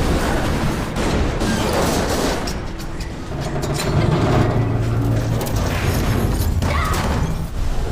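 Action-film soundtrack: dramatic music with sustained low notes, mixed with loud booms and crashing sound effects.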